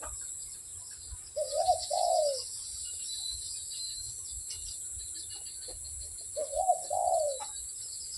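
A puter (Barbary dove) cooing twice, each coo a two-part rising-and-falling call about a second long, several seconds apart. Faint high chirps and a steady hiss run underneath.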